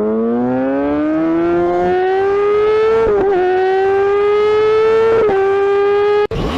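Sport motorcycle engine accelerating hard, its pitch climbing and dipping briefly at two upshifts about three and five seconds in; it cuts off suddenly near the end.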